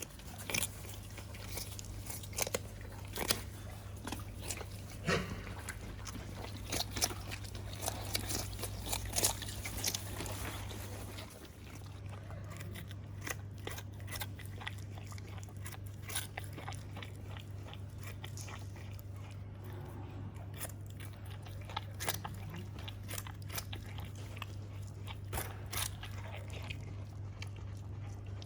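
An animal biting and chewing raw sweet potato, with irregular crisp crunches over a steady low hum.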